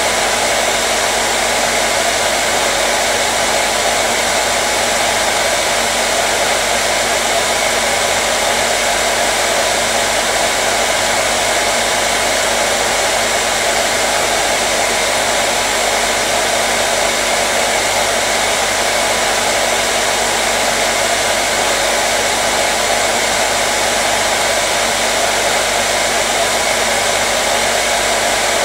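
Hair dryer blowing continuously at a steady speed: an even, unchanging rush of air with a faint steady motor hum.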